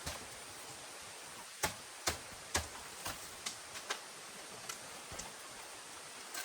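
Steady rain hiss with irregular sharp taps, roughly two a second at their busiest, the loudest three coming close together a second and a half to two and a half seconds in.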